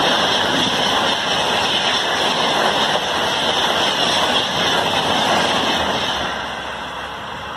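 Express passenger train's coaches passing at speed close by: a steady rush of wheels on the rails, fading away over the last couple of seconds.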